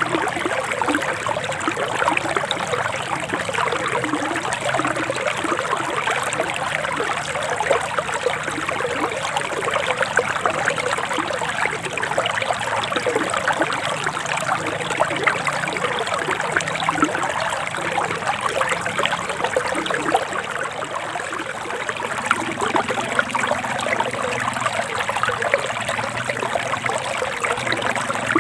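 A forest stream flowing and trickling steadily, a dense, even babble of water with many small splashes.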